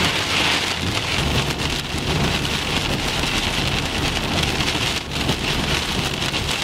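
Heavy rain falling on a car's roof and windshield, heard from inside the moving car, a steady dense hiss with a low, even road rumble beneath it.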